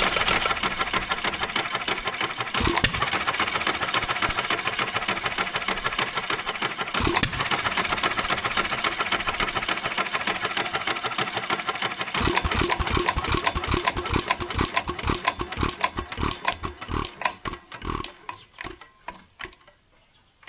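1926 Stover KA single-cylinder hit-and-miss gas engine running with a fast clatter and a few louder firing strokes. About two-thirds of the way through, its beats slow, spread out and fade as it coasts to a stop near the end.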